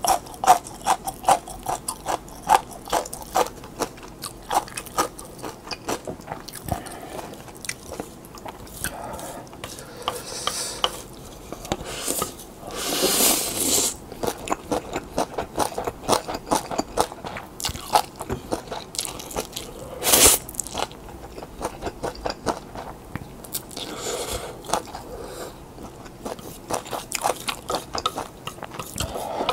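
Close-miked chewing and slurping of instant yakisoba noodles, with rapid wet mouth clicks throughout. A long slurp of noodles comes about 13 seconds in.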